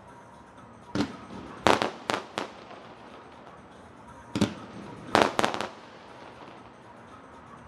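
Fireworks shells bursting overhead: one bang about a second in, a quick run of three over the next second, then another cluster of four bangs from about four and a half to five and a half seconds, with a quiet background haze between the bursts.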